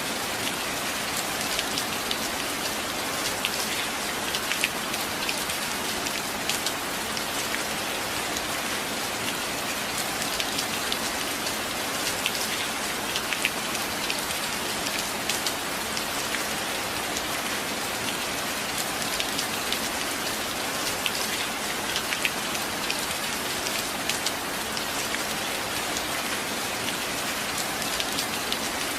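Steady rain falling, an even hiss with many separate drops ticking on a hard surface. No thunder.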